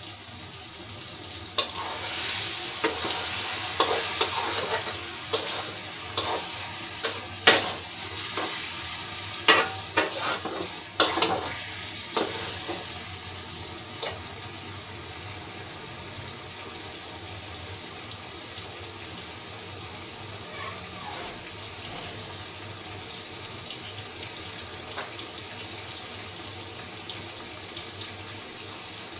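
Food frying in a pan. A spatula knocks and scrapes against the pan repeatedly during roughly the first half, over a sizzle. After that, only a steady, quieter sizzle is left.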